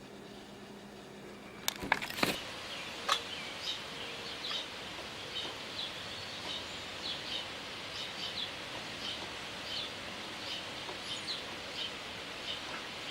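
Small songbird giving short, high chirps over and over, two or three a second, with a few sharp clicks about two seconds in.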